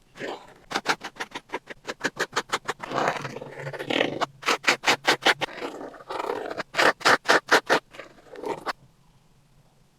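Acrylic paint being worked across a surface in quick scraping strokes, about five or six a second, in several runs with longer swishes between; the strokes stop near the end.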